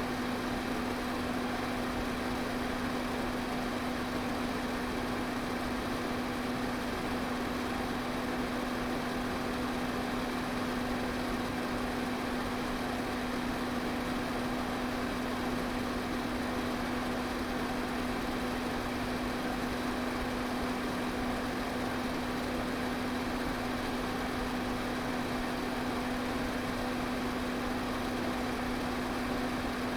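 Electric pedestal fan running steadily: a constant rush of air over a steady low motor hum.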